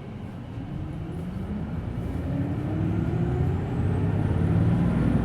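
Hino Blue Ribbon City Hybrid bus's diesel engine revving up as the bus accelerates away from a stop, heard from inside the cabin: the engine note rises steadily in pitch and grows louder. A faint high whine rises and falls over it in the second half.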